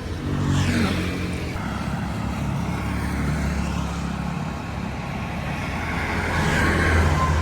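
Motor traffic: engines running steadily, with vehicles passing that swell louder about half a second in and again near the end.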